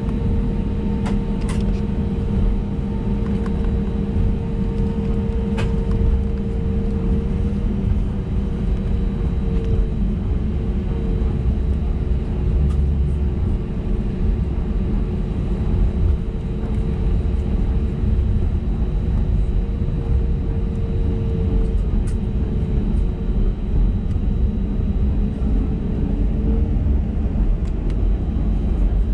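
Airbus A320neo cabin noise while taxiing, its CFM LEAP-1A engines at idle: a steady low rumble with a constant droning hum, and a few faint ticks about a second and six seconds in.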